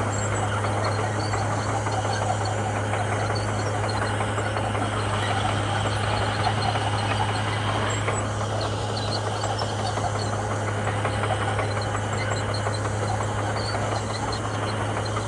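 Komatsu bulldozer's diesel engine running steadily with a constant low hum, holding an even pace without revving up or down.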